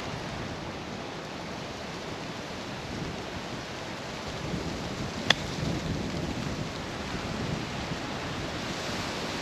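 Strong wind buffeting the microphone, a steady rushing noise, with one sharp click about five seconds in: a wedge striking a golf ball on a chip shot.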